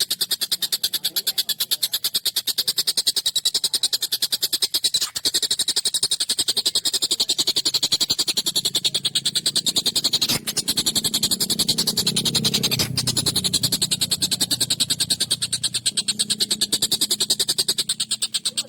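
Tengkek buto kingfisher calling in a long, harsh, rapid chattering rattle of evenly spaced notes, several a second, running on without a break.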